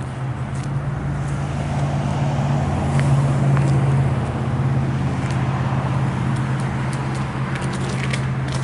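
An engine runs steadily at a constant idle-like hum, with a few light clicks and knocks over it.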